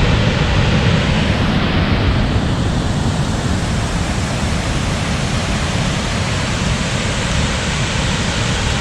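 Waterfall: a loud, steady rush of falling water with a heavy low rumble.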